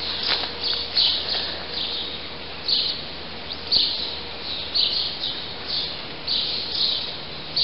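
Birds chirping: short, high chirps repeated irregularly, about one or two a second, over a faint steady outdoor background.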